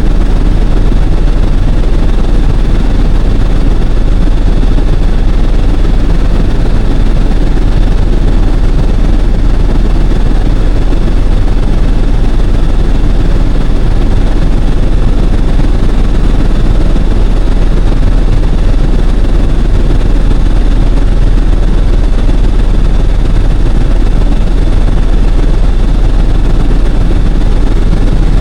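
Helicopter's engine and rotor noise, loud and steady throughout, with a deep low rumble and a faint high whine.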